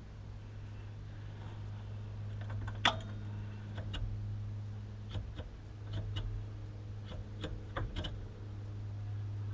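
Scattered light clicks and taps of small parts being handled, the sharpest about three seconds in and several more in the second half, over a steady low hum.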